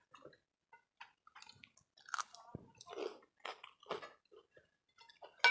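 Close-up chewing and wet mouth smacks of someone eating rice with chicken curry, in irregular short bursts, with one sharper, louder smack near the end.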